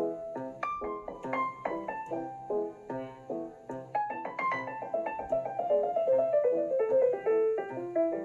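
Background piano music: a steady stream of notes over a repeating accompaniment, with a melody that steps downward near the end.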